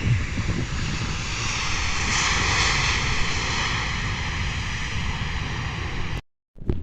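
Airplane engines running loud and steady as an aircraft passes, swelling to their loudest two to three seconds in and then easing a little, before the sound cuts off suddenly near the end.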